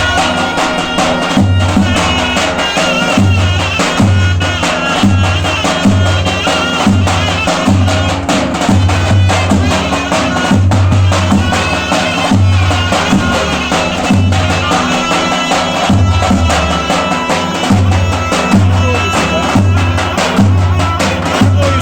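Traditional folk music: a reedy, wavering wind melody over a steady, regular drum beat.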